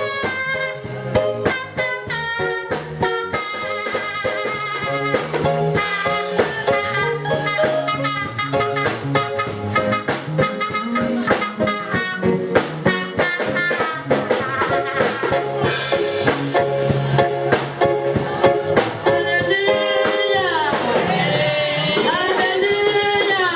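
Music from a band with a drum kit, playing steady held notes over a regular beat. Near the end a lead line slides up and down in pitch.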